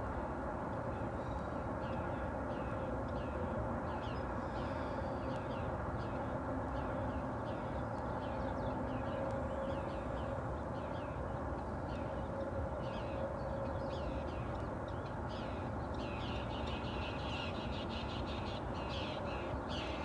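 Birds squawking outdoors, with many short, repeated calls that come thicker toward the end, over a steady low background hum.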